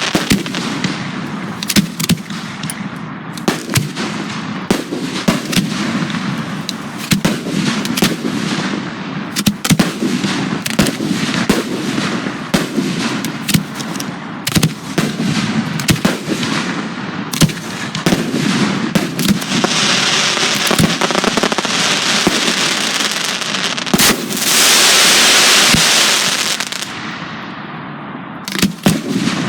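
Professional fireworks display: aerial shells and cakes launching and bursting in rapid succession, many sharp reports over a continuous rumble. From about twenty seconds in, a dense hissing wash builds over the reports, loudest around twenty-five seconds, then drops off near the end.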